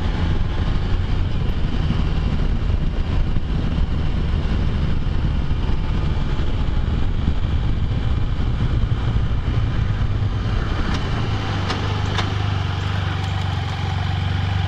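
Can-Am Spyder three-wheeled motorcycle's engine running under way, mixed with wind and road noise. About ten seconds in the engine settles into a steadier, lower hum as the trike slows.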